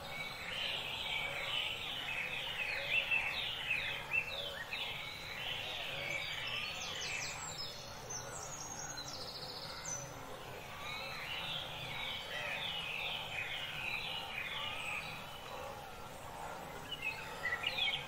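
Small birds singing: runs of rapid, repeated down-slurred chirps that come and go, with a higher, thin trill in the middle.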